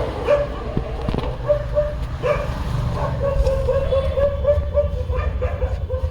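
A dog whining and whimpering in short, repeated pitched cries, several a second and coming faster after about two seconds in, over a steady low rumble.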